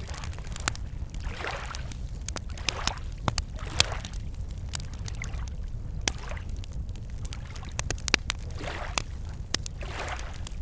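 Wood campfire crackling with sharp, irregular pops, one louder snap about a third of the way in, while small lake waves lap against the shore in soft swells every second or two over a steady low rumble.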